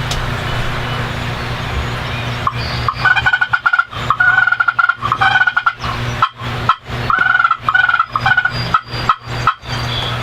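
A run of short, arched turkey yelps from about two and a half seconds in until near the end, over a steady low hum and hiss.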